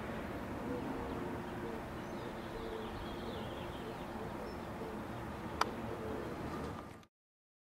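Outdoor ambience with birds calling in short repeated notes over a steady background hiss. A single sharp click comes about five and a half seconds in, and the sound cuts off suddenly about seven seconds in.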